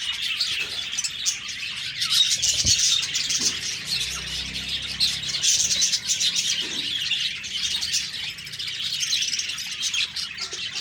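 A flock of budgerigars chirping and warbling continuously, many short overlapping chirps.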